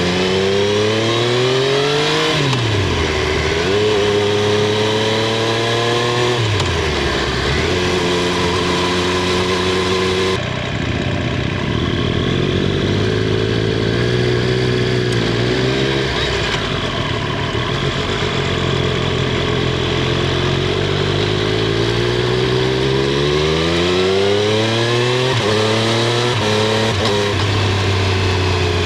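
Triumph Street Triple 765 R's three-cylinder engine and exhaust under way, heard from under the seat. The pitch climbs under acceleration and drops sharply twice in the first seven seconds. It then holds a fairly steady note for a long stretch, and climbs again near the end.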